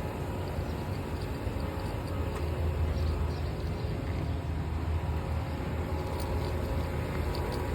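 Steady low rumble of a vehicle running: engine and road noise, with no horn or other sudden sound.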